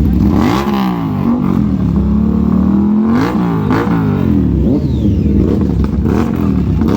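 BMW S1000RR inline-four engine through an Akrapovic GP exhaust, revved in quick throttle blips. The pitch climbs and drops back about half a second in, holds steady for a couple of seconds, then rises sharply twice more around the middle, followed by a few smaller blips.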